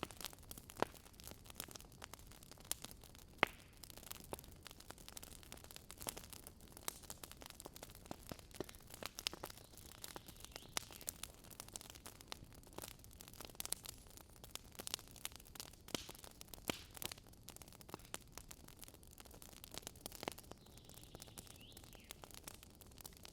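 Wood campfire crackling: irregular sharp snaps and pops, several a second, over a soft steady hiss of burning, with one louder pop a few seconds in.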